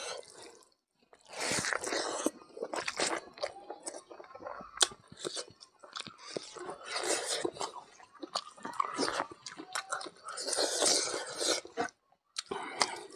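Close-miked chewing and biting of a man eating mithun (gayal) intestine curry with rice, a run of irregular short mouth clicks, with brief pauses about a second in and near the end.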